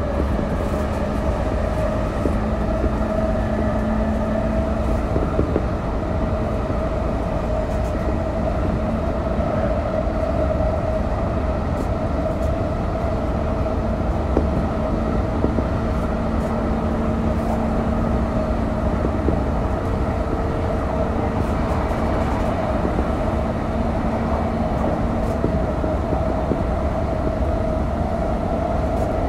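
Chuo Line rapid electric commuter train (JR East E233 series) running at steady speed, heard from inside the carriage: a continuous rumble of wheels on rail with a steady motor hum.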